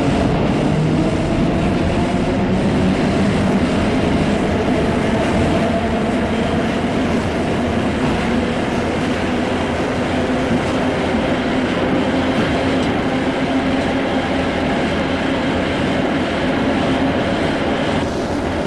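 A vehicle running steadily: a loud, continuous rumble with a few humming tones that drift slowly in pitch and shift slightly near the end.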